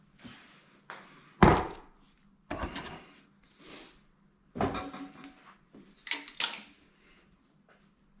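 Metal engine parts and tools clanking and knocking as they are handled and set down, about half a dozen separate knocks, some briefly ringing, the loudest about a second and a half in.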